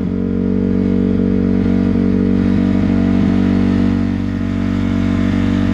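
Motocross dirt bike engine running at a steady pitch.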